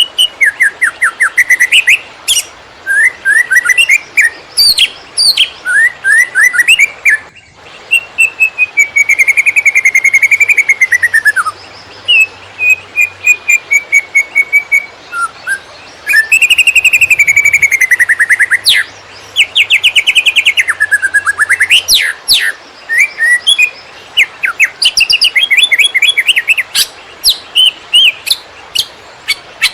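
Cucak ijo (green leafbird) singing a fast, varied 'konslet' song: rapid chirps and trills, runs of quick repeated notes and long slurred whistles that rise and fall, with short pauses between phrases.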